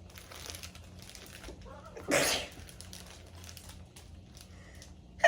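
A person sneezing: one short, loud burst about two seconds in, with a second one starting right at the end.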